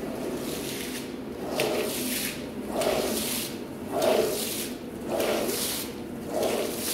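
A soaked rug being worked in repeated wet, swishing strokes, about one stroke a second.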